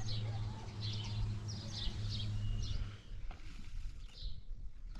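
Small birds chirping in quick repeated high notes, over a steady low hum that cuts off about three seconds in.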